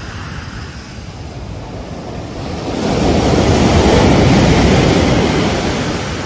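Ocean waves breaking on a beach: a steady surf wash that swells into a louder breaking wave about halfway through, then eases off.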